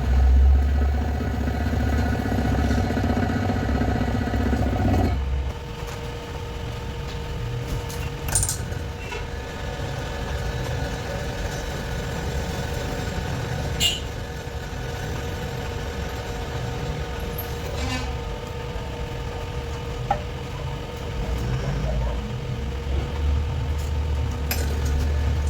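Workshop machinery running with a steady hum, a heavier low rumble dropping away about five seconds in and coming back near the end, and a few sharp metallic clinks.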